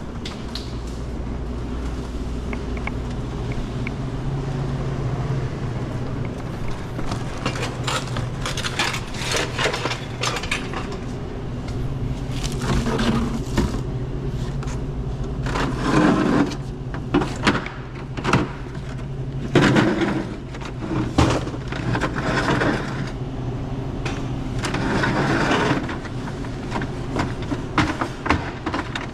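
Repeated knocks, rattles and scrapes of things being handled and moved, loudest in clusters midway through and late on, over a steady low hum.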